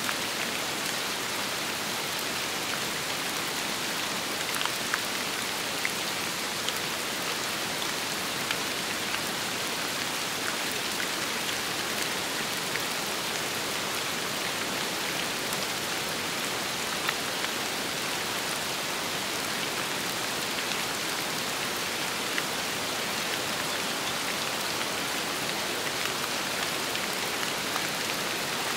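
Steady rain falling, a dense even hiss with individual drops ticking sharply now and then.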